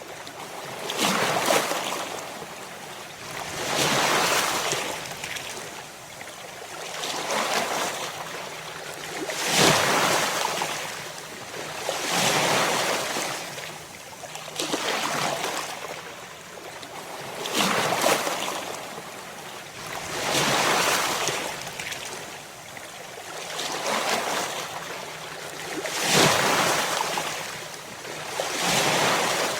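Ocean waves breaking on a shore, the surf rising and falling in regular surges about every three seconds.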